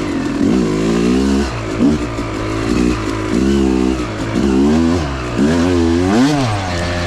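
Dirt bike engine revving up and falling back over and over as the rider works the throttle on the trail, its pitch rising and dropping every second or so, with one sharp rev and drop about six seconds in.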